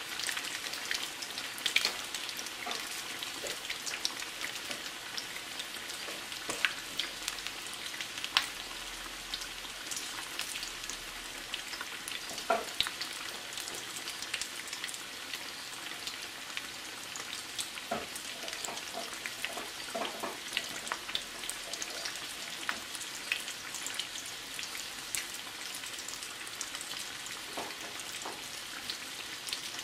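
Breaded chicken legs deep-frying in a skillet of hot oil: a steady sizzle with scattered pops and crackles.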